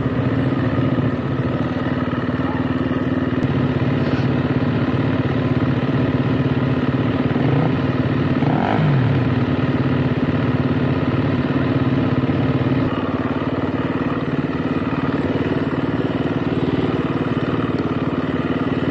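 Motorcycle engine running at a fairly steady speed under way, with a brief change in pitch about nine seconds in.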